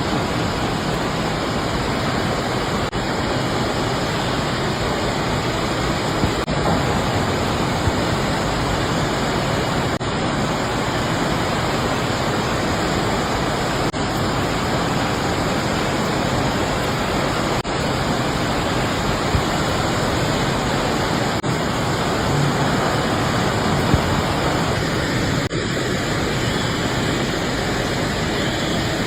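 Steady, loud rushing of fast-flowing floodwater, with slight breaks every few seconds.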